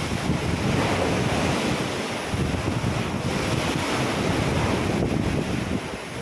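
Ocean waves splashing and washing in, a steady rush of surf that swells and eases, with wind buffeting the microphone.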